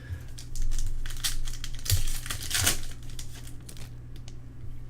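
Plastic trading-card pack wrappers crinkling and tearing as packs are handled and opened, in an irregular crackle that is loudest in the first three seconds, over a steady low hum.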